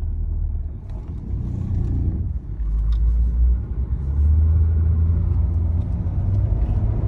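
Ford BF Falcon XR6's inline-six engine and road noise heard from inside the cabin as the car drives and pulls under acceleration, growing louder about four seconds in. The engine is running with its oil pressure warning light on.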